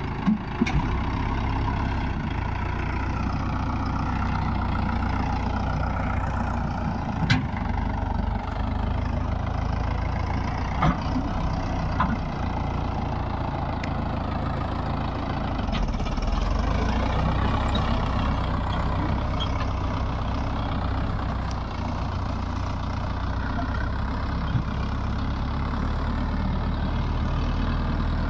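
Mahindra Yuvo Tech+ 585 DI tractor's four-cylinder diesel engine running steadily while it works under load, with a few sharp knocks along the way.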